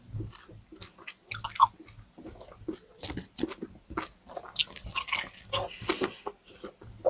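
Close-miked chewing and biting of a crispy pata meal (deep-fried pork leg with rice and lettuce): irregular crisp crunches with wet mouth sounds, busiest in the second half.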